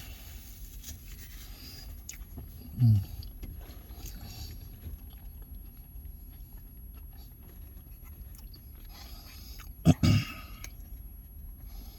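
Quiet eating sounds over a steady low hum, with a short low 'mm' of enjoyment about three seconds in and two quick voiced sounds near the end.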